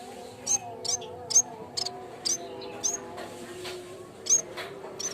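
Yellow-bellied warbler (cikrak bambu) calling: a series of short, sharp, high chirps, several with a quick upward hook, about two a second at uneven spacing. Fainter steady lower tones run underneath.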